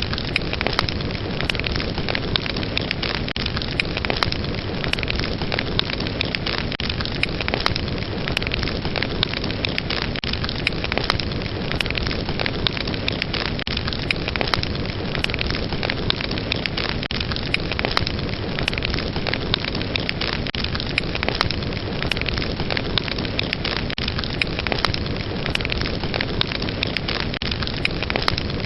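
Fire burning steadily with a dense, continuous crackle of many small pops.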